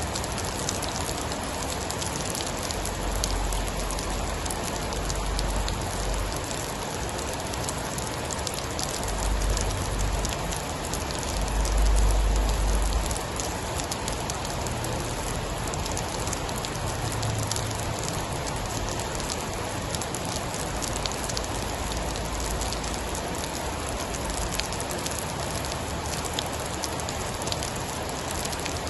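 Steady rain falling, with a constant patter of sharp drop ticks and low thunder rumbling several times, loudest about twelve seconds in.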